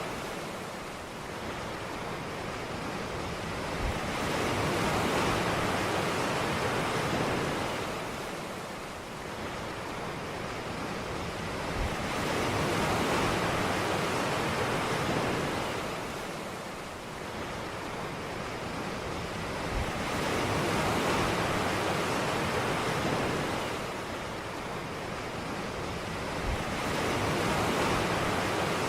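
Ocean surf breaking on a beach: a rushing swell of water noise that builds and recedes about every eight seconds, each wave starting with a faint low thud as it breaks.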